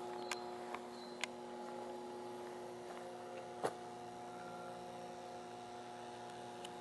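Steady electrical mains hum of a power station's transformers, several tones held at fixed pitch, with a few faint clicks, the sharpest about three and a half seconds in.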